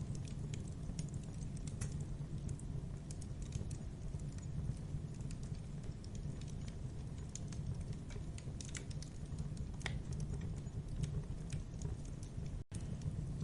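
Campfire burning: irregular sharp crackles and pops over a steady low rumble of the flames. The sound cuts out for an instant near the end.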